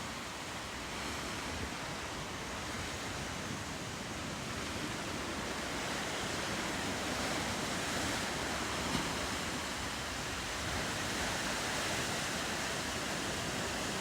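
Steady wash of ocean waves and surf, with no distinct events.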